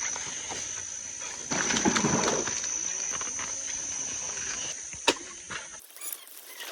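Insects droning outdoors, a steady high-pitched buzz that cuts off suddenly near the end. Over it come rustling and crackling noises about two seconds in and a sharp click about five seconds in.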